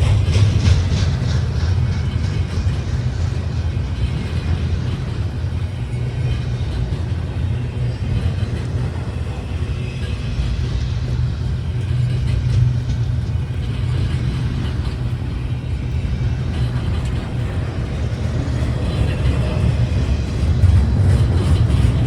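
Steady low rumble of a moving train, running evenly with no sudden events, slightly louder near the start and the end.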